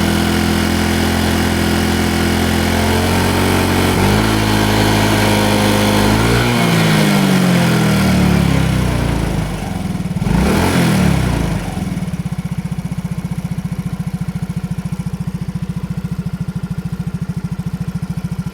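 Yamaha Cygnus-X scooter's single-cylinder four-stroke engine running, its revs rising and falling about halfway through before settling into a steady idle with a fast, even pulse. This is the engine whose abnormal noise the owner still hears after the piston and piston pin were replaced twice, though the shop calls it normal.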